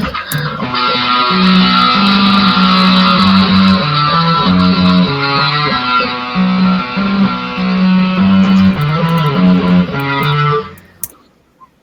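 Guitar music with a bass line of held notes that steps up and down. It stops abruptly a little before the end.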